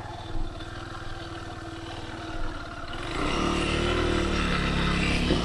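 Kymco KTR 150 single-cylinder four-stroke motorcycle engine running steadily, then revving up and getting louder about three seconds in. Two brief knocks come during the steady running.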